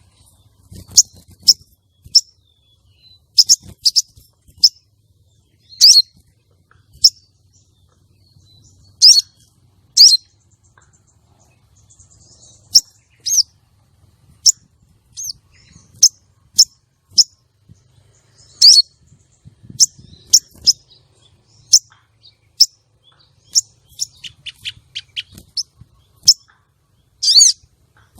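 Female sogon calling: short, sharp, high-pitched chirps, about one a second with gaps, some sweeping downward, and a fast run of notes a little after three-quarters of the way through. It is the kind of call used as a lure to draw male sogon and bring them into breeding condition.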